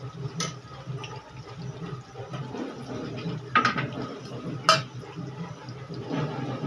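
Potato pieces deep-frying in hot oil in a kadhai, a steady bubbling sizzle. Three sharp clinks cut through it, about half a second in and twice more around three and a half and nearly five seconds in.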